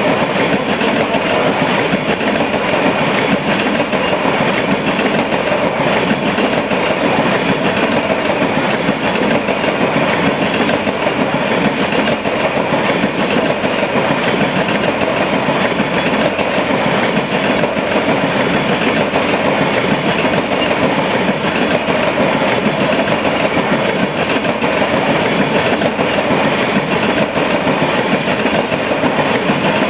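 Coal cars of a freight train rolling steadily past, the wheels running on the rails with a continuous loud rumble.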